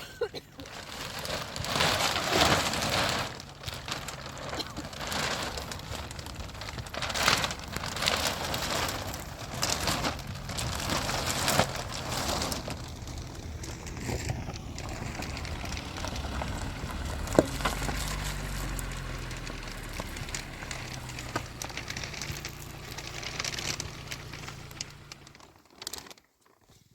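Rain falling, a patchy hiss of noise that surges and fades, with a faint low steady hum underneath. Both drop away about a second before the end.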